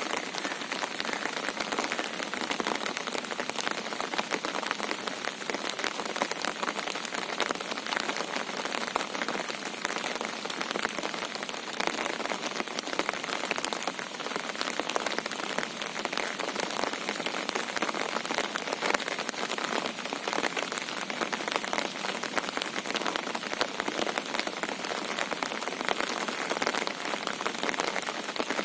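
Steady monsoon rain: a dense, even hiss of countless drop hits, unchanging throughout.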